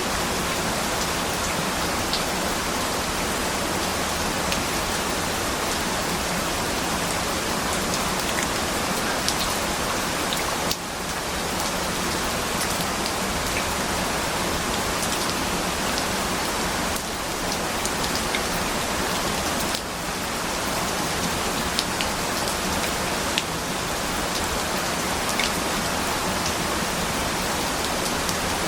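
Steady rain falling, an even hiss dotted with the ticks of individual drops, dipping briefly in level a few times.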